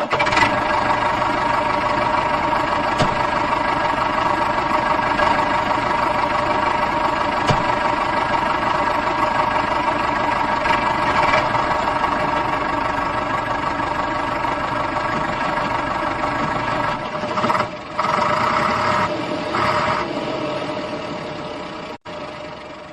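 A small motor running steadily with a constant whine, wavering briefly near the end and then fading out.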